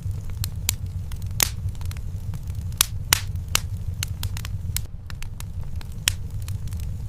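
Fire in a fireplace crackling: irregular sharp pops and snaps over a steady low rumble of the burning fire.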